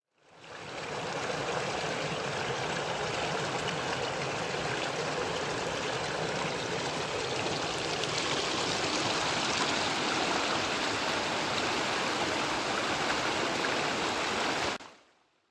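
Small mountain stream's water running steadily, fading in at the start and fading out near the end.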